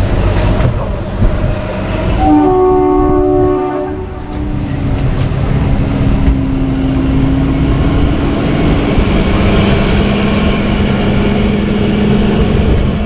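Kalka–Shimla narrow-gauge toy train running, heard from aboard as a steady rumble of wheels and carriages. The horn sounds once about two seconds in, lasting under two seconds.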